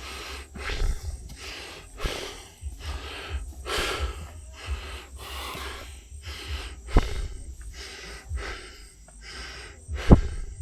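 A person breathing hard and fast while climbing a steep trail, about one breath a second. Two sharp thumps, one about seven seconds in and one near the end.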